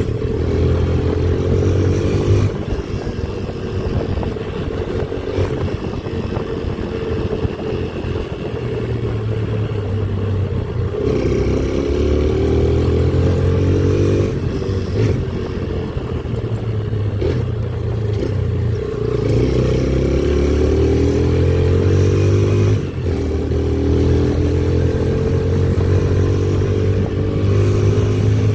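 Motorcycle engine running while being ridden, its pitch climbing and dropping several times as it speeds up and eases off, over a low rumble of road and wind noise.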